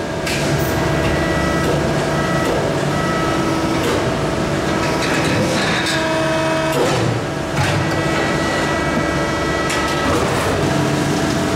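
Large hydraulic press brake running during a bending job. A steady machine hum carries several tones that shift every second or so, with a few sharp metallic knocks.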